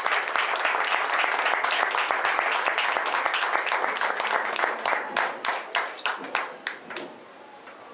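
A group applauding: dense clapping that thins to a few separate claps and stops about seven seconds in.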